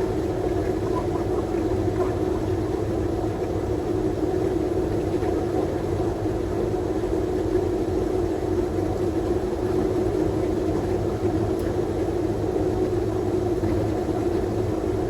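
Steady flight-deck noise of an airliner in its climb: a constant rush of airflow and engine drone with an even hum, without change.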